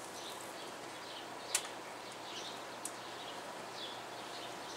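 Small birds chirping off and on in short repeated calls over a faint outdoor background, with a sharp click about a second and a half in and a softer one near three seconds.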